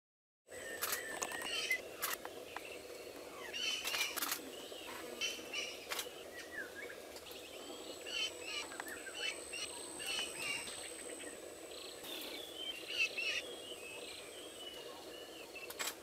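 Forest birdsong ambience beginning abruptly about half a second in: many short bird chirps and calls, scattered sharp clicks, and a thin steady high whine through much of the middle.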